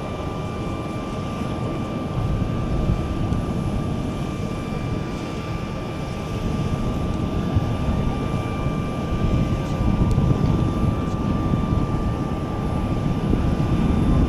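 Kawasaki C-2 transport's twin turbofan jet engines rumbling during a flying display pass, with a steady whine over the roar, gradually growing louder.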